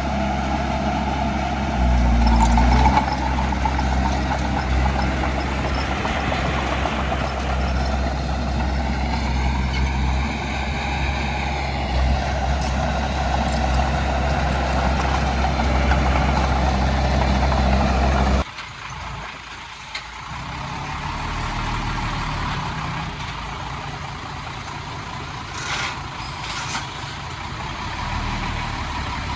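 Diesel engines of heavy earthmoving machinery running, with a rise and fall in engine pitch about ten seconds in. About two-thirds of the way through the sound drops suddenly to a quieter engine, with a few short clanks or hisses near the end.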